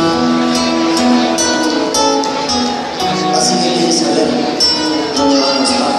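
Live folk band playing the instrumental introduction of a song, with held notes over light percussion.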